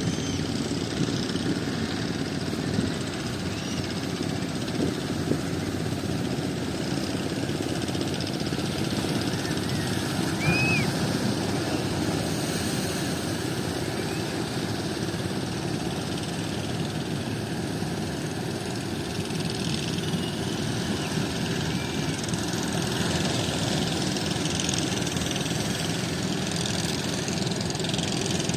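Strong wind blowing steadily across the microphone, a continuous rushing noise.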